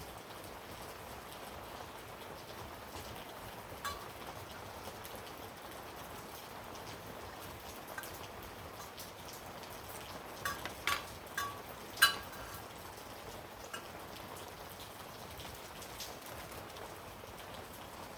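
Scattered small clicks and taps of carburetor parts and tools being handled during reassembly: a few single ones, then a quick run of them with the loudest about twelve seconds in. A steady even hiss sits underneath.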